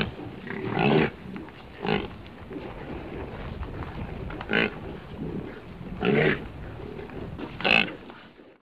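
Water buffalo giving short, low grunts, about six of them a second or more apart, over a steady background noise.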